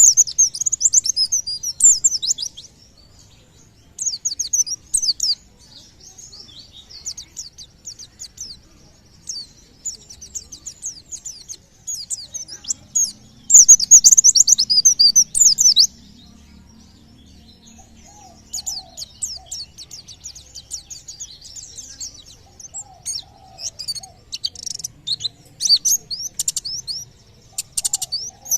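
White-eye (pleci) singing in rapid runs of high, fast chattering notes, the 'tembakan' style. The phrases last one to three seconds with short pauses between them, and the loudest run comes about halfway through.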